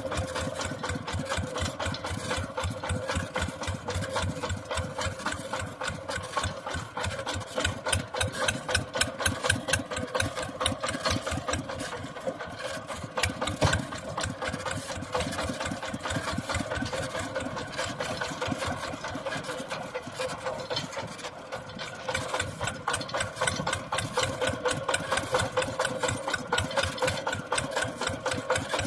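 Mini tractor engine running with a rapid, regular beat, swelling louder for a few seconds at a time.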